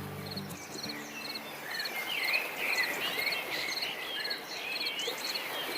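Natural ambience: an insect chirping in short, evenly repeated pulses, about two a second, with birds calling in whistles and trills, busiest a couple of seconds in. The last of a guitar piece fades out in the first half-second.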